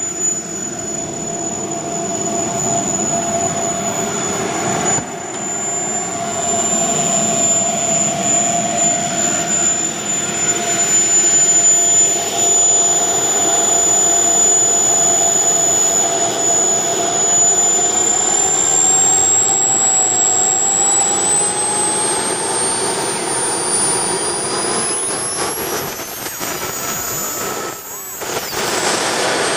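Jet Central Cheetah model jet turbines running on a first ground run: a steady high-pitched whine over a rushing roar. From about two-thirds of the way through, the whine rises in pitch as the turbines spool up.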